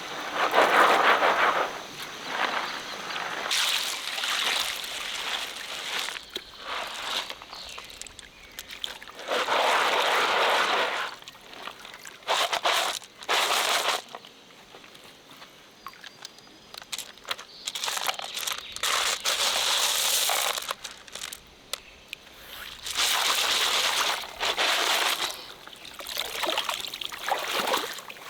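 Water sloshing and splashing in repeated bursts of a second or two, with quieter gaps between them, over the faint trickle of a stream.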